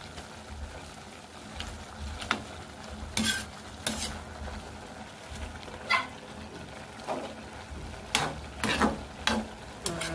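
Rice noodles (bihon) being stirred and tossed in a pan with a utensil: irregular scrapes and clinks against the pan over a low, steady sizzle, coming more often near the end.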